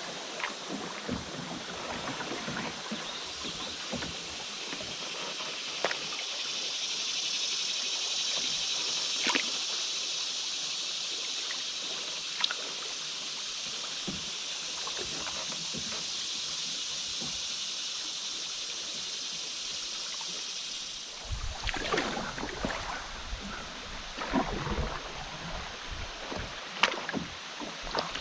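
River water flowing steadily around a canoe, with scattered light knocks. About two-thirds of the way through, uneven low rumbles and sloshing join in.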